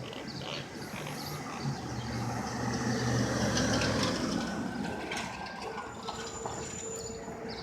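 A heavy vehicle's engine running as it passes on the street. The low hum swells to its loudest about halfway through, then fades.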